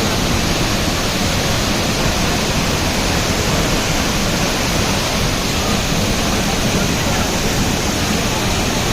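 A waterfall about 30 metres high pouring down: a loud, steady rush of falling water with no breaks.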